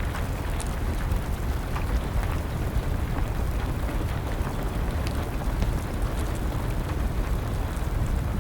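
Wood fire crackling, with scattered small pops, over a steady hiss of rain and a low rumble.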